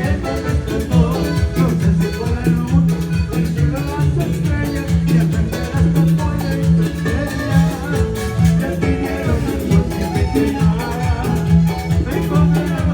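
Latin band music playing with a steady beat, a prominent bass line and percussion, without lead singing.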